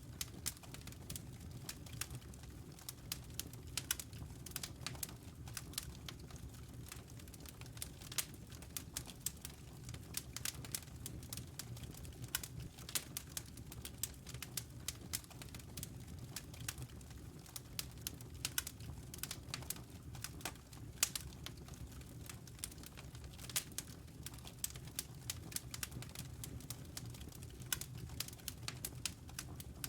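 Wood fire in a fireplace crackling, with frequent irregular sharp pops and snaps of burning logs over a low, steady rumble.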